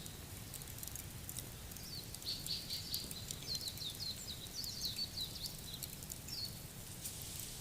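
Songbirds chirping in quick runs of short falling notes, over faint scattered crackles of a wood fire and a low steady background hum.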